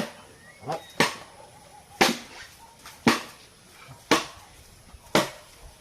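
Steady hammer blows, about one a second, each a sharp strike with a short ring.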